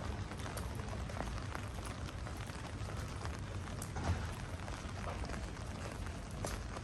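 Steady rain falling, with scattered single drops ticking close by at irregular moments over a low rumble.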